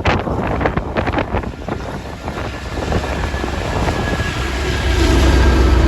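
GO Transit commuter train passing close by: a quick run of wheel clicks over the rail joints, then a low steady diesel locomotive drone that grows louder near the end.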